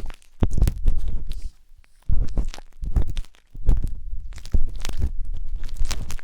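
Wooden tanghulu skewer scraping and rubbing inside the ear of a 3Dio binaural microphone, in irregular strokes of close crackly scratching with a deep rumble, separated by brief pauses.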